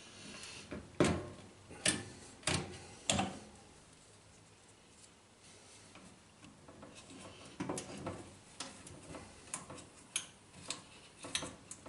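Clicks and knocks of an electric fan heater's parts and tools being handled during reassembly: four sharp knocks in the first three seconds, then a run of lighter clicks from about halfway through.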